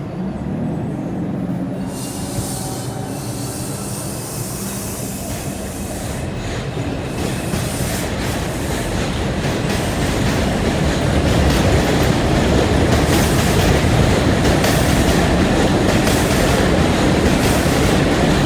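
New York City Subway R142 train running along the track, growing louder over the first ten seconds or so and then holding steady. From about eight seconds in there are repeated short clicks of the wheels over rail joints.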